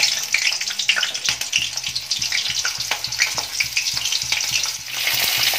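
Small whole onions frying in hot oil: a busy sizzle full of small crackles and pops. Near the end it briefly dips, then turns into a denser, steadier hiss.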